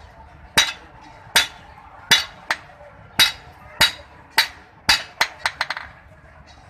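A blacksmith's hand hammer striking hot iron in a steady beat, about one ringing blow every two-thirds of a second. Near the end it turns to a quick run of lighter taps.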